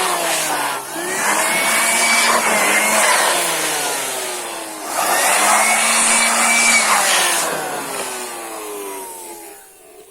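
Electric air blower drying water off a washed chainsaw, run in two bursts: its motor whine spins up about a second in and again around five seconds, each time sliding down in pitch as it slows, and it fades out near the end.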